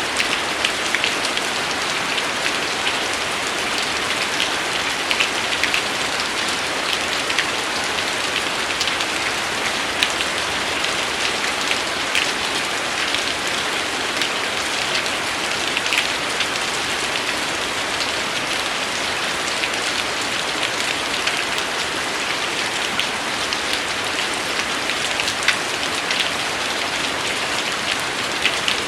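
Steady rain falling and pattering on a surface, an even hiss with scattered sharper drop ticks.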